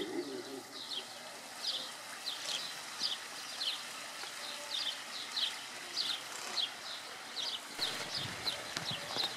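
Small birds chirping outdoors: a run of short, high chirps that drop in pitch, about two or three a second.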